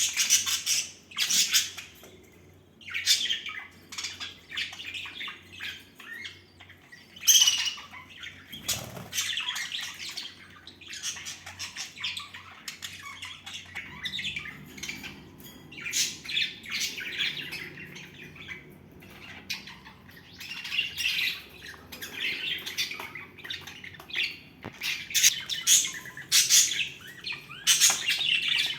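Pet budgerigars chattering: a continuous stream of short chirps, squawks and warbles, with louder flurries about a quarter of the way in and near the end.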